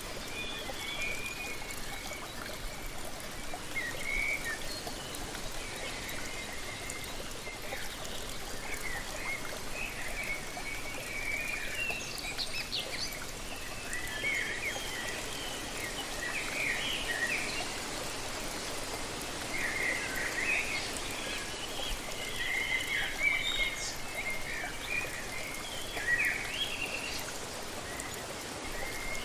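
Steady rush of a waterfall with birds chirping and calling over it, short chirps coming many times, thickest in the second half.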